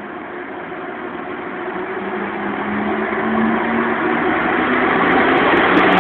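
EU07 electric locomotive pulling a passenger train away from the platform, its running noise growing steadily louder as it comes alongside. A low steady hum joins in about two seconds in.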